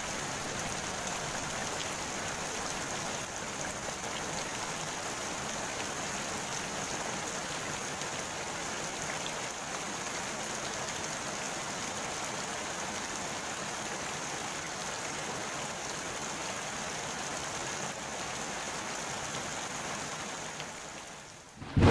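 Steady rain falling on the surface of a pond, an even, dense patter of drops on water. It fades out briefly just before the end.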